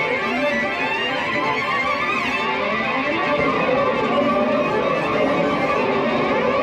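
Violin played in an experimental way, several of its unusual sounds layered together into one dense, continuous piece of music, with a brief high glide about two seconds in.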